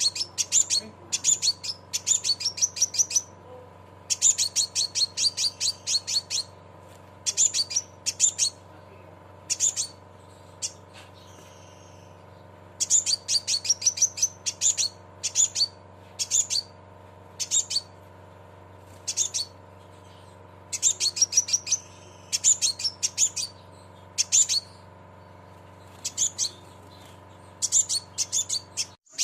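Crimson sunbird (sepah raja) singing its 'cret cret' song: short bouts of rapid, high, metallic chips and trills, repeated again and again with brief pauses between them, over a faint steady hum.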